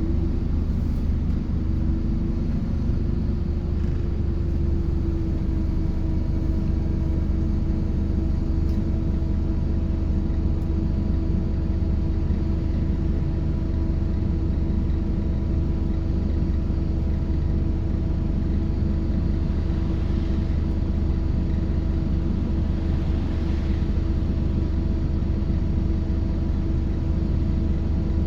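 Scania K230UB city bus heard from inside the cabin while driving, a steady low engine and drivetrain drone. A whine rises slightly about three seconds in and then holds steady, and a second, higher whine joins a couple of seconds later.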